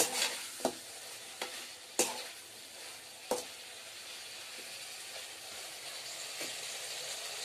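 Potatoes and cauliflower frying in masala in a metal karahi with a steady sizzle, while a metal slotted spoon stirs them, clinking sharply against the pot several times in the first half.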